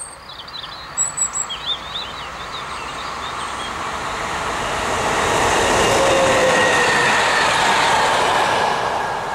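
A yellow SNCF infrastructure locomotive with its wagons passing along the line. The rolling rumble of wheels on rail swells to a peak about six to seven seconds in and then begins to fade, with a thin steady squeal in it at the loudest point.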